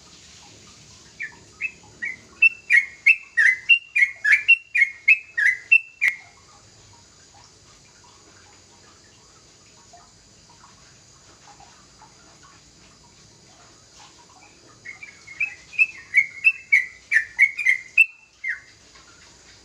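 A young yellow-vented bulbul (trucukan) singing. It gives two runs of rapid, loud, clear notes, about three a second, each run lasting a few seconds with a pause between them.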